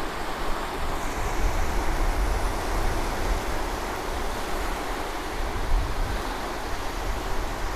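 Surf washing on the beach, a steady hiss, with wind rumbling on the microphone.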